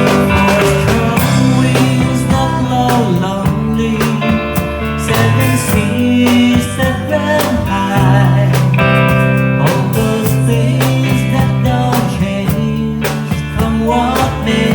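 A band playing a country-folk song, with guitars to the fore.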